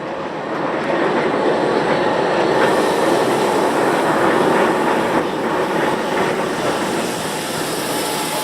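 Gornergrat cogwheel train running on its rack railway: a steady rumble of the cars and wheels on the track, with some clacking, getting louder about a second in.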